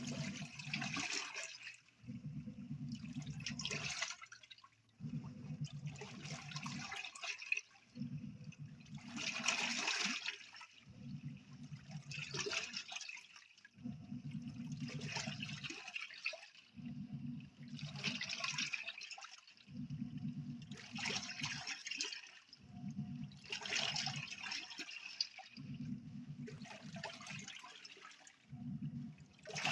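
Nictemaw portable washing machine running a wash cycle: short runs of low motor hum alternate with water swishing in the tub, about once every three seconds.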